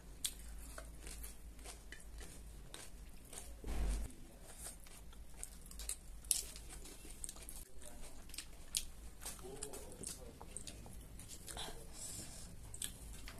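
Close-up mouth sounds of chewing crisp raw cabbage and crunchy mimi singju salad, a dense run of small crunches and wet clicks. A short, louder burst of noise about four seconds in.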